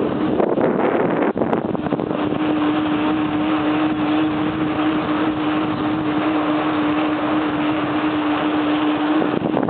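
Wind rushing over the microphone of a camera on a moving bicycle, loud and steady. A steady hum joins about two seconds in and stops shortly before the end.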